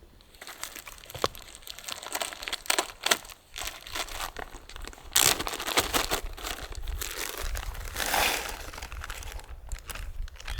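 Plastic bag crinkling and rustling as it is handled, in irregular bursts with the loudest stretches about halfway through and near the end.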